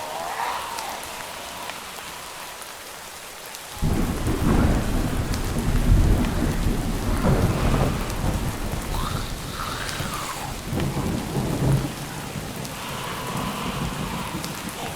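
Steady rain falling, with a roll of thunder that breaks in suddenly about four seconds in, rumbles loudest about two seconds later and dies away by about twelve seconds.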